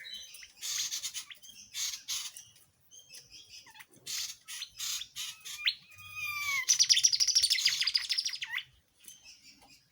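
A tledekan jati songbird singing: scattered short chirps and whistles, then a couple of sliding whistles, and about seven seconds in a loud, fast trill lasting about two seconds before a few faint notes.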